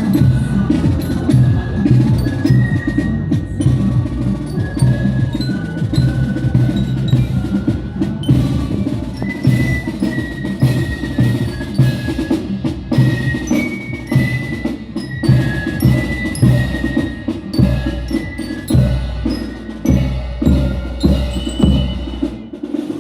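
Parade marching band playing a tune: drum strikes keep the beat under a low pitched bass part and a melody of high, bell-like notes.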